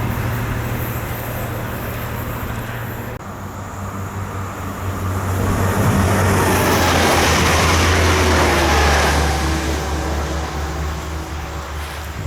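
A train passing over a level crossing. A steady low engine note runs under a rush of wheel and rail noise that swells to its loudest midway and then eases off.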